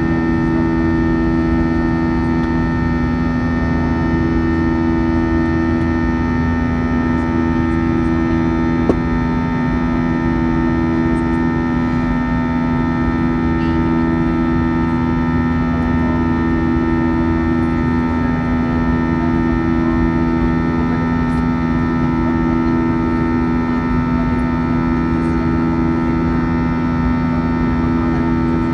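Airbus A321 jet engines running, a steady drone of humming tones with one tone that swells and fades about every two seconds.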